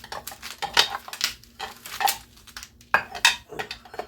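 Irregular metallic clinks and knocks of hand tools and small-engine parts being handled and set down during an engine teardown.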